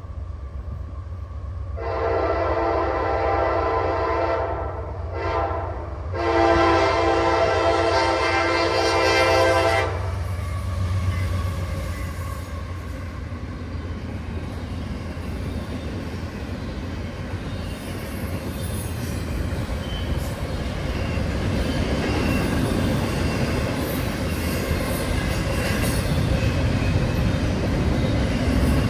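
A diesel freight locomotive's multi-chime air horn sounds two long blasts, then the train rolls past with a steady low rumble and the clickety-clack of wheels, growing louder and hissier near the end.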